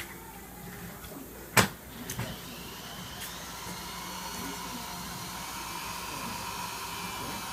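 A sharp click, then a small motor starts up about two seconds in and runs with a steady whine.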